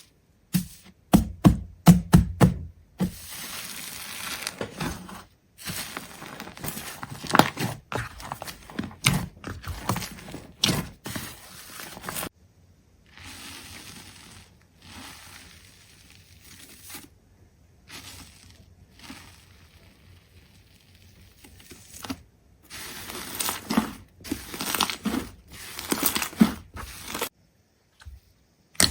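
A run of short crackling, tearing and knocking handling sounds, broken into separate pieces that each stop abruptly, with a quieter, softer stretch in the middle.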